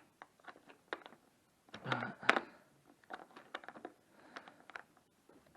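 Irregular small clicks and clatters of OO gauge model railway stock being handled on the track, loudest about two seconds in.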